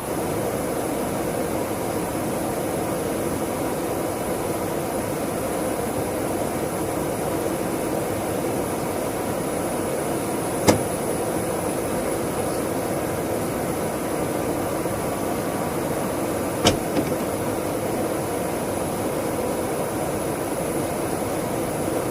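Jet engine running steadily, a dense rush with a thin high whine held on one pitch. Two sharp clicks sound over it, about eleven and seventeen seconds in.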